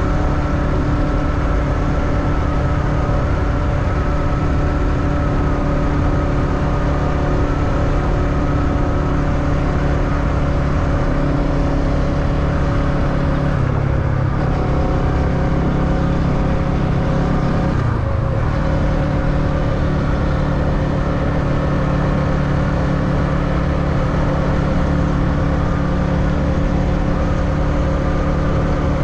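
Motorbike engine running steadily during a ride. The engine note shifts for a few seconds about halfway through, with a brief dip at the start and end of that stretch.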